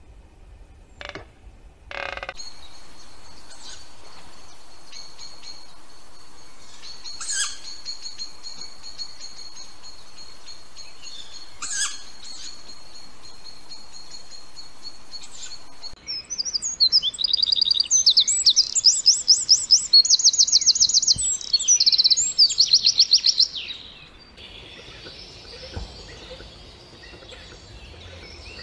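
Wild birds calling. First comes a faint steady high whine with a couple of sharp chirps. Just past the middle, a bird's loud, rapid high trills repeat for several seconds, and softer chatter follows near the end.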